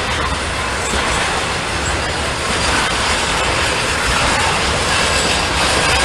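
Norfolk Southern freight train rolling past: a steady noise of wheels on rail that grows slightly louder.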